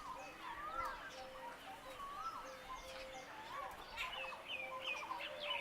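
Several birds calling over one another: rising-and-falling whistled notes and steady held notes, with quick rattling trills joining about four seconds in.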